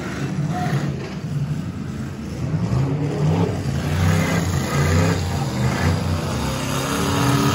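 Several demolition derby cars' V8 engines running and revving, their pitch rising and falling as the cars manoeuvre.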